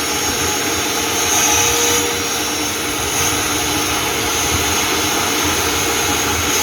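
Steady, loud running noise of motor-driven car-wash equipment, an even hiss with a faint whine held throughout.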